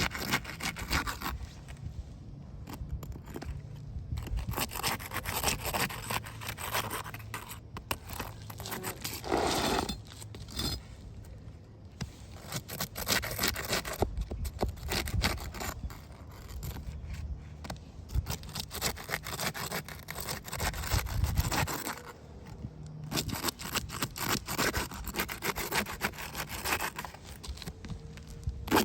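Uneven scraping and rubbing noise with many small clicks, coming and going in stretches without a steady rhythm.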